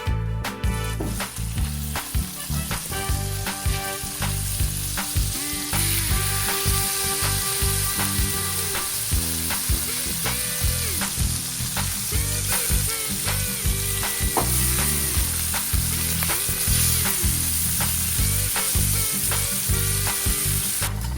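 Food sizzling in a hot frying pan, a steady hiss, with background music underneath.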